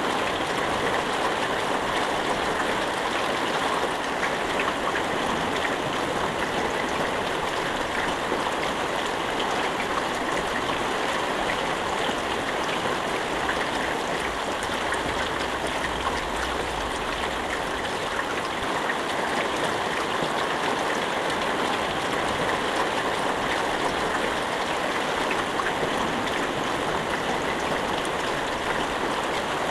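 Steady rain falling without a break, an even hiss packed with fine drop patter. There is no thunder.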